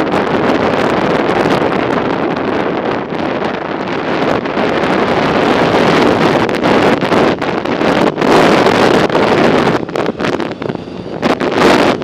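Wind rushing over the microphone of a camera riding along on a moving bicycle, a loud steady noise that turns gusty and uneven near the end.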